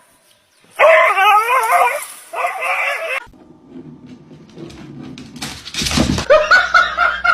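A dog whining in two wavering, high-pitched cries, each about a second long. About six seconds in there is a sudden loud burst, then a steady high tone.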